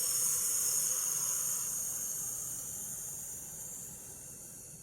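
A woman breathing out in one long, hissed "sss" as a breathing exercise, slowly fading as her breath runs out.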